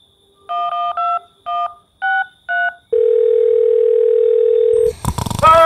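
Telephone keypad tones, about six quick two-note beeps as a number is dialled, followed by a steady low line tone for about two seconds. Near the end there is a sudden thump, then a new held tone begins.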